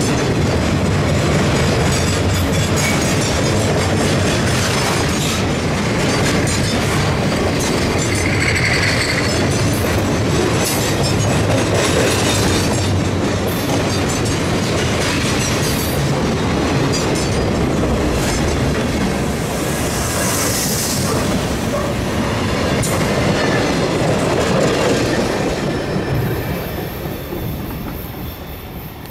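Freight or passenger train cars rolling past, wheels clicking steadily over the rail joints, with a brief wheel squeal about a third of the way in. The rolling noise fades away near the end as the train draws off.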